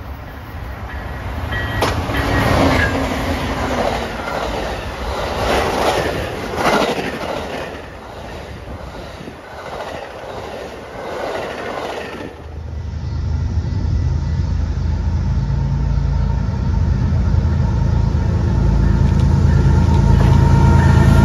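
Railcars of a passing train rolling by, their wheels clattering over rail joints in repeated surges. About twelve seconds in the sound changes abruptly to a low steady rumble with a faint whine.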